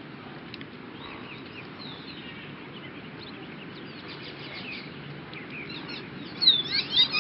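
Birds chirping and twittering in many short, quick calls over a steady background hiss, with a louder cluster of calls near the end.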